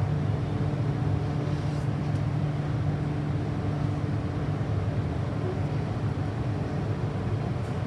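Steady low hum of an MTR M-Train, with a faint constant tone above it and no change in pitch.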